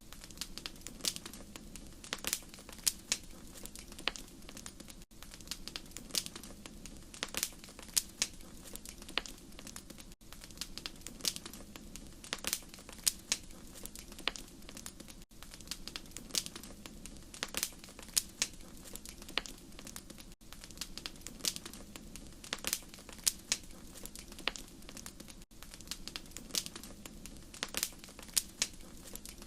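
Wood fire crackling in a fireplace: irregular sharp pops and snaps, several a second, over a steady low hum of the burning.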